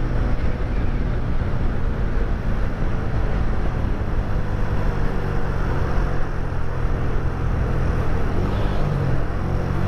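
Suzuki 125 motorcycle engine running steadily while riding, under constant wind and road noise.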